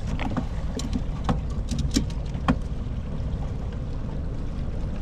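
Steady low rumble on a boat on the water, with several short, sharp knocks and clicks in the first half.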